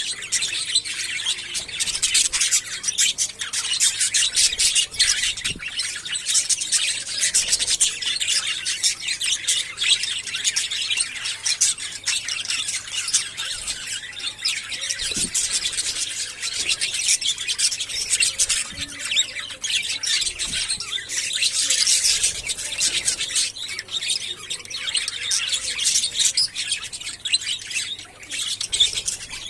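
A colony of budgerigars chattering, many birds at once, a dense run of quick chirps and squawks that never lets up.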